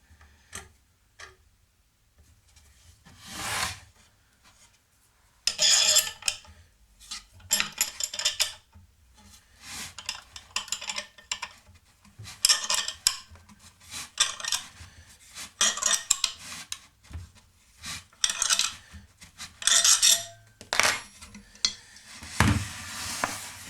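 Metal-on-metal rasping and clinking in repeated short strokes, about one every second or two, as a nut is turned down tight on a threaded steel rod.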